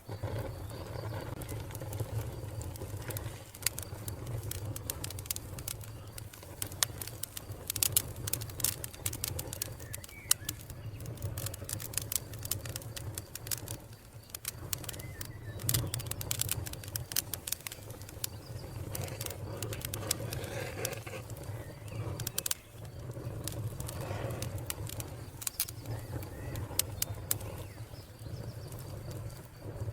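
Wood fire crackling, with irregular sharp pops and snaps over a steady low rumble. Birds call softly in the background.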